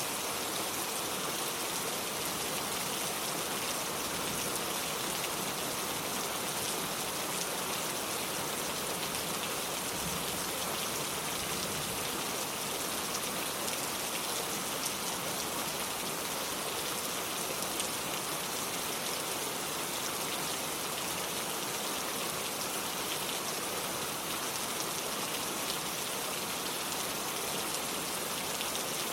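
Steady rain falling on a lake and a wooden porch, a constant hiss of drops with small pattering ticks.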